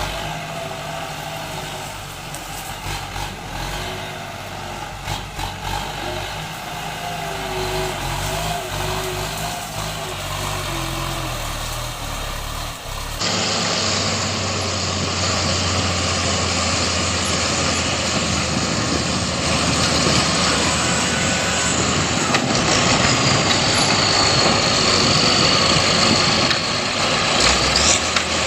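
Farm tractor engines running steadily. About halfway through the sound cuts abruptly to a louder, rougher engine sound.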